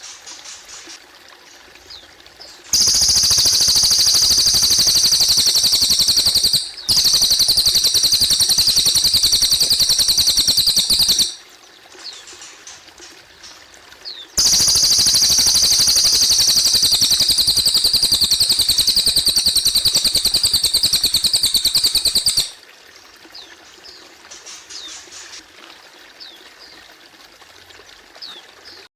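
A caged cililin bird singing long, loud, very rapid high trills in three bouts, two of about four seconds and one of about eight seconds. Between the bouts, water trickles softly and a few faint chirps sound.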